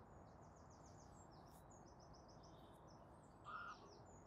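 Faint songbird chirping: quick runs of short, high chirps over a quiet outdoor background hiss, with one brief, slightly louder note about three and a half seconds in.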